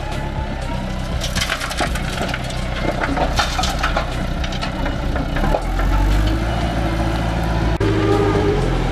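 A heavy machine's engine running steadily, with irregular crunching and cracking noises over it, thickest in the first half; the engine gets louder about halfway through.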